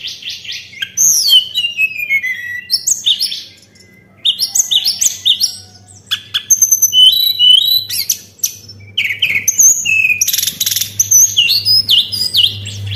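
Tledekan song: fast runs of high, clear whistled notes and falling slurs, in bursts with a short pause about four seconds in, over a faint steady low hum.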